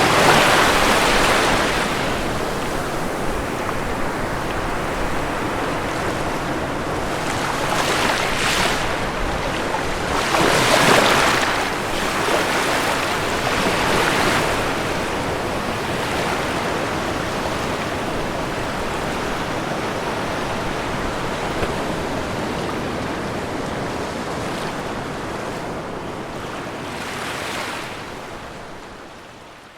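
Ocean surf washing on a shore, a steady rush of water with several waves breaking louder, the biggest about eleven seconds in. Near the end the sound fades away.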